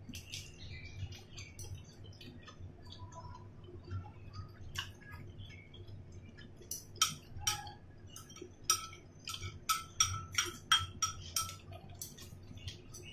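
Close-up chewing of boiled dumplings: soft wet mouth sounds, then from about seven seconds in a run of sharp, wet smacking clicks about two a second, in time with the chewing.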